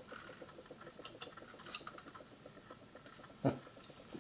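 Faint small clicks and taps of a hard plastic display case and packaging being handled, with one louder knock about three and a half seconds in.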